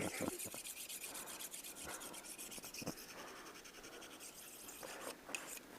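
Knife cutting and scraping along a moose hide as it is skinned: quick, repeated scratchy strokes with a few soft knocks.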